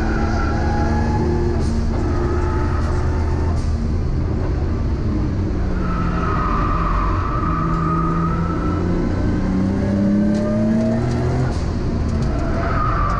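Nissan Skyline R32 GTS-t's turbocharged RB20DET straight-six heard from inside the cabin, driven hard around a circuit. The revs climb steadily for several seconds in the middle, then drop away near the end.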